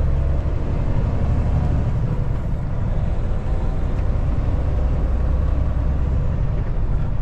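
Semi truck's engine and road noise heard from inside the cab while driving, a steady low rumble.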